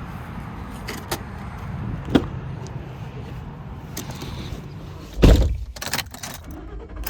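A pickup truck's door shutting with one heavy thump about five seconds in, with a few sharp clicks before and after it over a low steady rumble.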